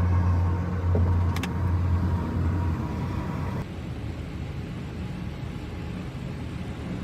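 Car driving, heard from inside the vehicle by a dashcam: steady engine and road rumble, with a short sharp tick about a second and a half in. About three and a half seconds in, the sound drops suddenly to a quieter, thinner road noise.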